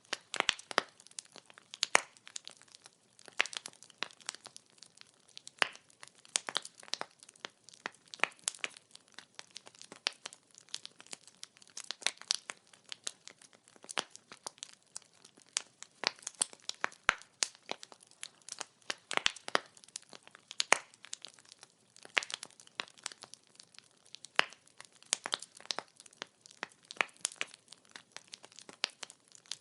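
Burning firewood crackling and popping, a dense irregular run of sharp snaps over a faint hiss of flame.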